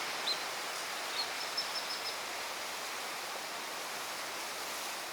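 Steady outdoor background hiss with no clear single source, with a few faint, brief high bird chirps in the first two seconds.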